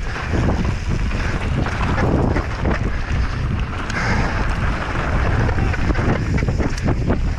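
Wind buffeting a body-mounted camera's microphone as a mountain bike descends, with constant clatter and rattling over rough ground.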